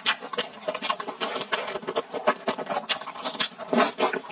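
Close-miked chewing of hot pot beef and tripe: wet, irregular mouth clicks and smacks, several a second.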